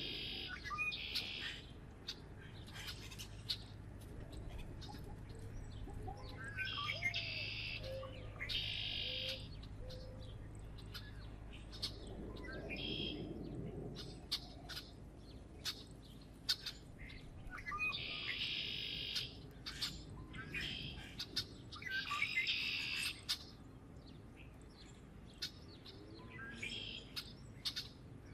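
Wild birds at a feeder chirping and singing, in about half a dozen quick, high-pitched phrases of about a second each, with many short sharp clicks between them.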